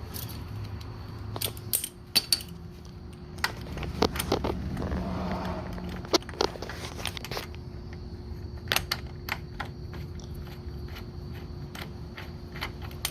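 Scattered metallic clicks and clinks of hand tools and bolts being worked and handled, as the frame slider comes off the motorcycle. A faint steady hum runs underneath.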